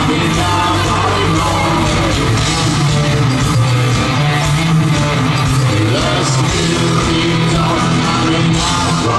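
A rock band playing loudly, with a steady bass line and drum hits under the guitars.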